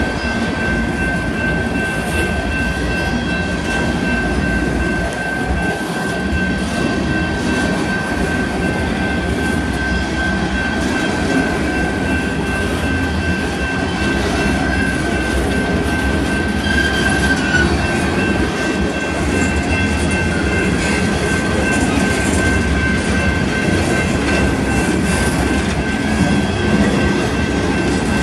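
Empty coal cars of a freight train rolling past close by: a steady rumble and clatter of steel wheels on the rails, with a thin, steady high-pitched wheel squeal held over it.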